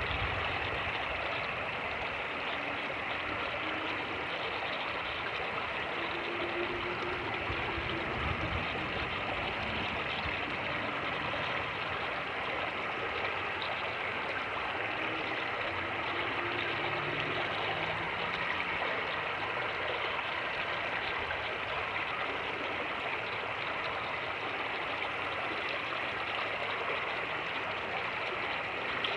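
Fast-moving creek water rushing over rapids in a steady, continuous wash. A couple of brief low thumps of wind on the microphone come near the start and about eight seconds in.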